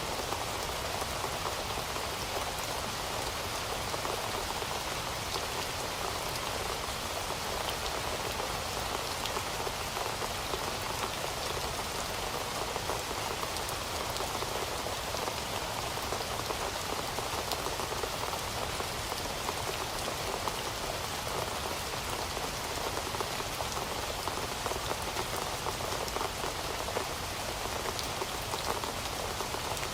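Heavy rain falling steadily, a dense even hiss of drops with fine patters of individual drops hitting a surface.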